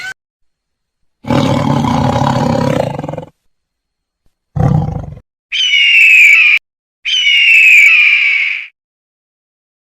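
Recorded animal calls. A low roar lasts about two seconds, then comes a short low grunt, then two loud high-pitched calls, each falling slightly in pitch.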